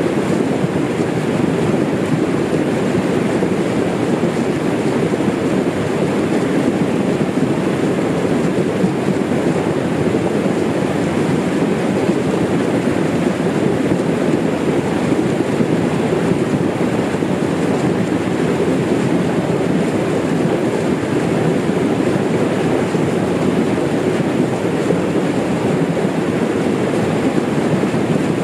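Small waterfall: a steady, loud rush of falling water, even and unbroken throughout.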